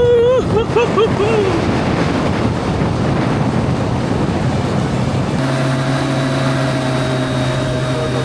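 Motorboat running at speed while towing a tube, with a dense rush of wind on the microphone and water spray. A wavering pitched sound fades out in the first second or so, and about five seconds in a steady engine hum becomes clear.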